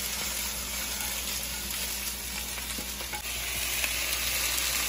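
Diced chicken breast sizzling in a nonstick frying pan, with a few light scrapes and taps of a slotted spatula stirring it. The sizzle grows a little louder and brighter about three seconds in.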